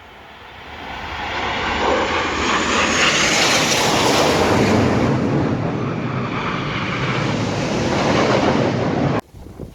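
Red Arrows BAE Hawk jets flying past, a loud jet rush that builds over the first couple of seconds and holds. The sound cuts off suddenly near the end.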